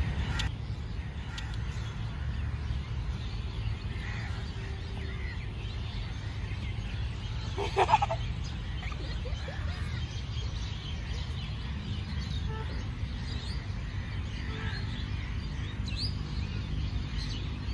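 Birds outdoors: one loud, short bird call about eight seconds in, and scattered faint chirps from small birds, over a steady low rumble.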